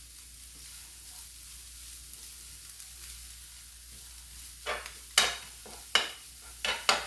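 Chopped kale frying in olive oil and butter in a pan, a steady sizzle as it wilts down. In the last couple of seconds, a utensil knocks sharply against the pan four or five times as the kale is stirred.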